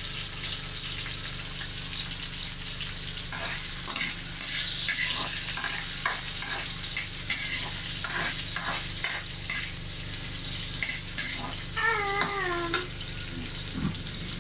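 Tomato wedges and ginger strips sizzling steadily in hot oil in a wok. From a few seconds in, a spatula scrapes and knocks against the wok in uneven strokes as they are stirred.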